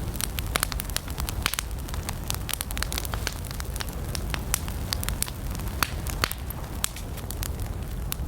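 Wood campfire crackling: many sharp, irregular snaps of burning wood over a steady low rush of the flames.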